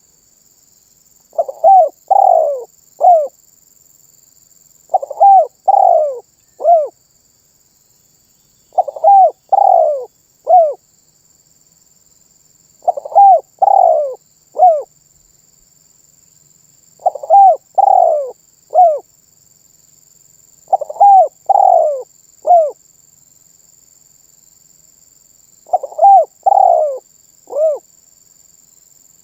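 Spotted dove cooing: seven repeated phrases, each a short lead note followed by three loud coos, about every four seconds.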